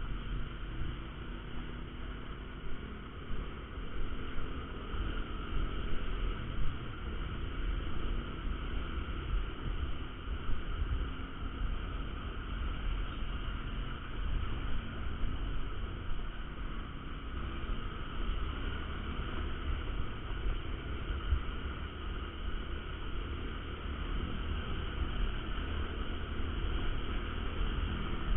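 Motorcycle riding: a Honda Verza 150's single-cylinder engine running steadily under continuous wind and road noise on the action-camera microphone.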